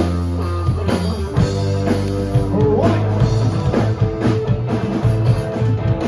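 Live rock band playing: drum kit hits over held bass and electric guitar notes, with a guitar or vocal note sliding up about three seconds in.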